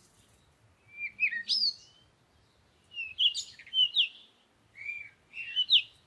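Birdsong: quick, high chirping and twittering phrases in three short bursts, each about a second long, with pauses between.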